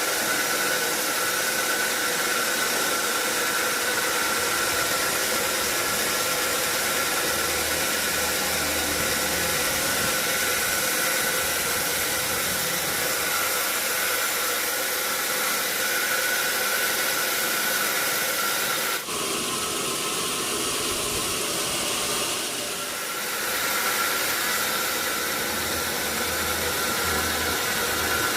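Sawmill saw running through a large log: a steady, loud, noisy whine with a constant high tone. It changes suddenly about two-thirds of the way in and comes back a few seconds later.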